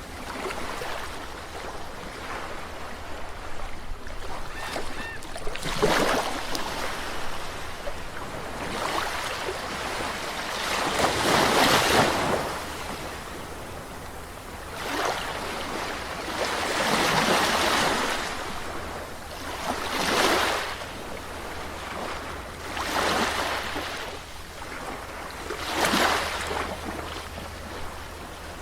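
Sea waves breaking and washing up on a shore, one after another. Each wave swells into a rush and then fades, every three to six seconds, with the biggest surge about twelve seconds in.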